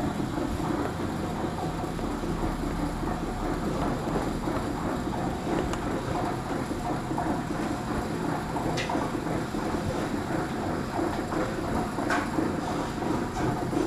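Steady running rumble of a moving vehicle, with two brief high squeaks about nine and twelve seconds in.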